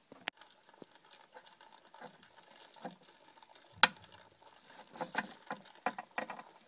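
Light scattered taps and clicks of small plastic toy figures being moved about by hand on a surface. One sharper knock comes about halfway, and a quick run of taps comes near the end.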